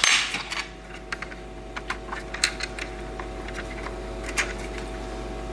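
Small irregular clicks and taps of hard plastic and metal laptop parts being handled during disassembly, with a short scraping burst at the very start, over a steady electrical hum.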